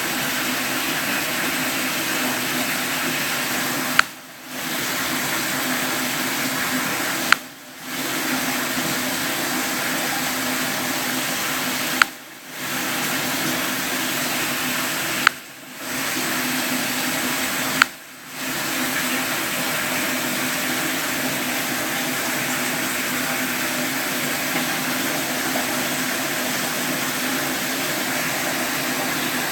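Steady rush of running water with a faint low hum, broken five times by a sharp click from the Galaxy S7 Edge phone. After each click the water sound drops out briefly for about half a second, then comes back.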